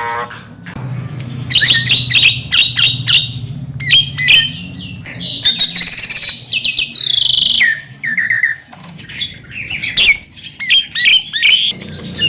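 Javan myna (jalak kebo) chattering: a busy, varied run of whistles, clicks and harsh squawks in quick succession.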